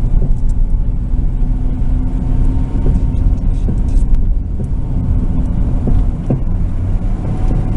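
Car running steadily: a low rumble of engine hum and road noise.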